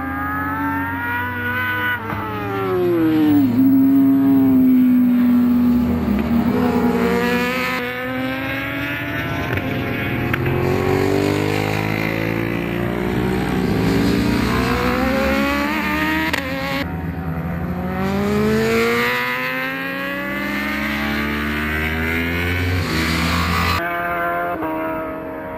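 1000 cc inline-four superbike racing motorcycles at full race pace, engine pitch climbing through the revs and dropping off again many times as they accelerate and brake. The sound changes abruptly a few times.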